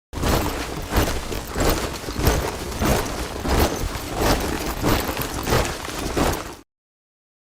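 Troops marching in step, boots striking the ground together at a steady pace of about three steps every two seconds. The sound cuts off abruptly about a second before the end.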